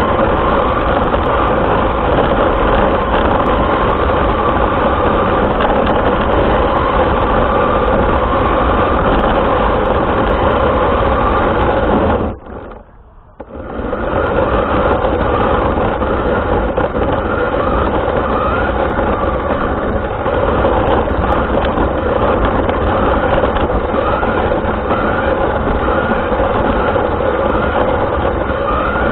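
An RC car running, picked up by its onboard camera's microphone as a loud, steady drivetrain noise. The sound cuts out for about a second a little before halfway, then comes back.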